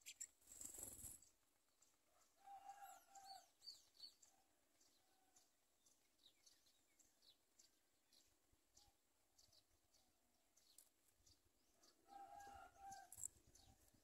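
Faint bird sounds: a brief rustling rush near the start, a few short high chirps, and twice a short run of lower clucking notes, about two and a half seconds in and again near the end.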